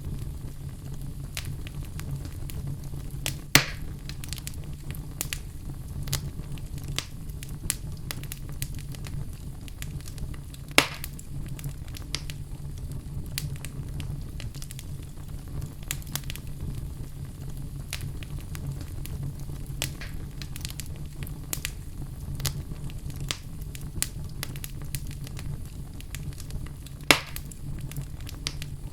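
Fire burning in a fireplace: steady crackling over a low rumble, with three loud sharp pops, about three and a half seconds in, about eleven seconds in, and near the end.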